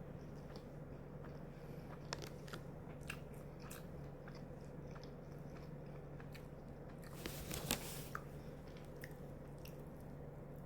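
A person chewing a mouthful of salmon-and-roe onigiri close to the microphone: small wet mouth clicks and soft crunches, with a short louder cluster of crunches about seven seconds in.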